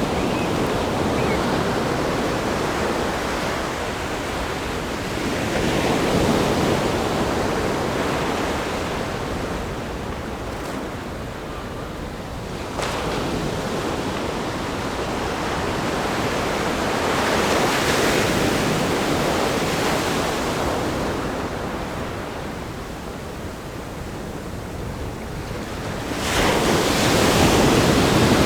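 Ocean waves breaking against a rock groin and washing onto a sandy beach: a continuous rush of surf that swells and ebbs every few seconds. A sharper surge comes about halfway through, and a louder break comes near the end.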